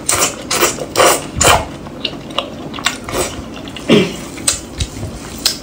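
Close-up wet biting and chewing of an oily braised lamb intestine roll, with many short smacking, squelching mouth clicks, and a brief falling hum about four seconds in.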